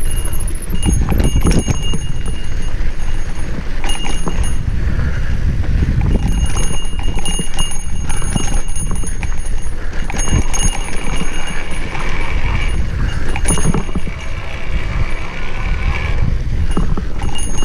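Mountain bike descending dirt single track: tyres rolling over rocks and the bike rattling with many irregular knocks, over a steady rumble of wind buffeting the microphone.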